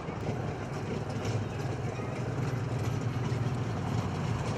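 A steady low engine rumble, running evenly without change.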